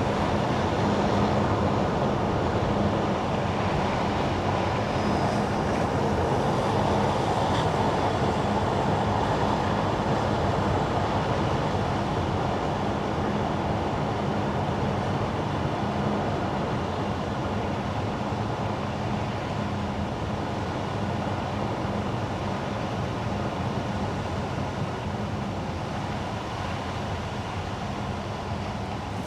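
Car driving on a wet road: steady rush of tyres on wet asphalt with a low, even hum, slowly getting quieter.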